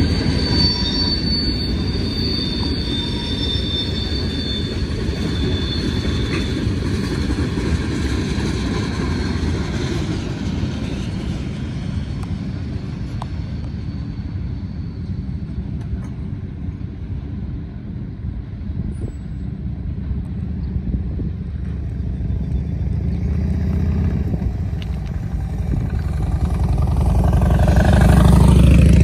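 Freight train cars rolling past on the rails, with a high wheel squeal over the first several seconds. The rumble eases in the middle and swells again near the end.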